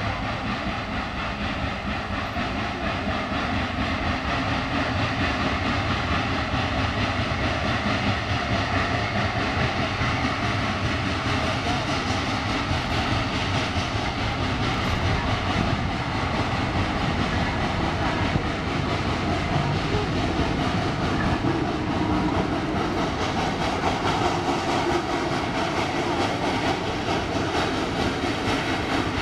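A train of a caboose and log-loaded flatcars rolling slowly past at close range, shoved by a geared steam locomotive: a steady running noise of wheels on rail that grows a little louder over the first few seconds as the cars draw near.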